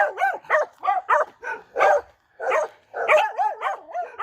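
Dog barking in rapid, high yaps with a rising-and-falling pitch, about three a second, pausing briefly about two seconds in.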